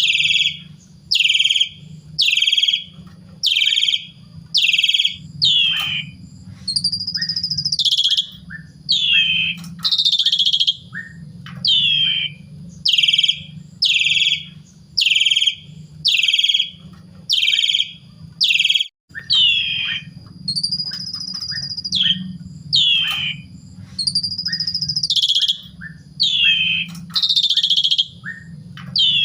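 Asian pied starling (jalak suren) singing: loud, short, downward-sliding calls about once a second, broken now and then by longer whistled phrases. A low steady hum runs underneath.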